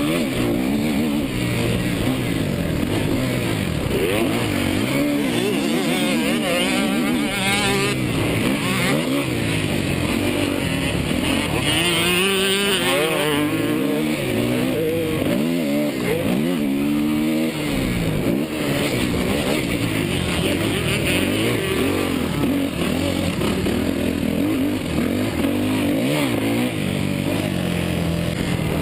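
Motocross bike engine revving up and down repeatedly, its pitch rising and falling over and over without letting up.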